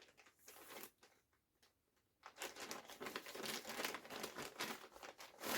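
Packaging crinkling and rustling as a zipper hoodie is unwrapped: a few short rustles at first, then steady crinkling from about two seconds in.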